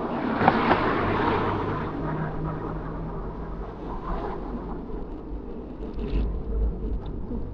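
A motor vehicle passing close by, its rushing noise swelling over the first two seconds and then fading, over a steady low rumble.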